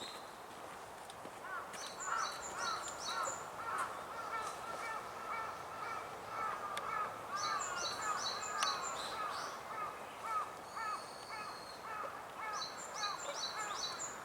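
Wild birds calling: a steady chatter of short, repeated arching calls, with runs of about five quick high notes breaking in three times.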